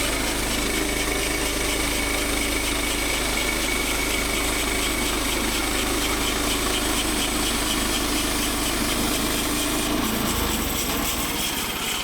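Small engine running at a steady speed, its tone shifting slightly about ten seconds in.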